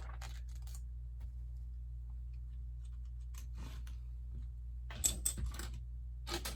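Plastic Lego pieces clicking and clattering as they are handled and pressed into place, with a cluster of sharp clicks about five seconds in and another near the end, over a steady low hum.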